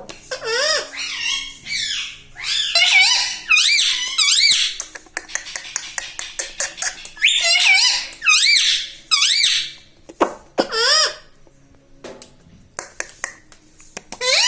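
Indian ringneck parakeet chattering and squawking in bouts of high, wavering calls, with a quieter stretch of soft clicks near the end before the loud calls start again.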